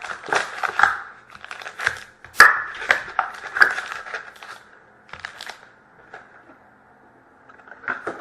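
Sealed trading-card packs being handled as a box of hockey cards is opened, the wrappers crinkling and crackling in a quick irregular flurry over the first few seconds, then only a few scattered crackles.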